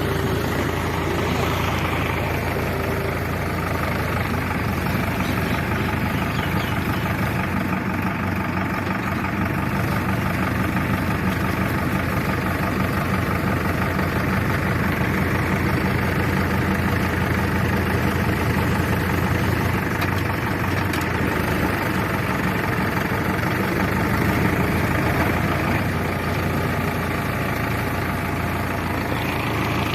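Heavy diesel engine running steadily at low speed, with an even hum.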